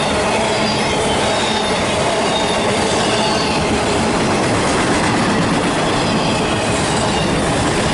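A train passing close by on the BNSF triple-track main: a steady, loud rush and rattle of wheels on rail, with thin, high wheel squeals drifting over it.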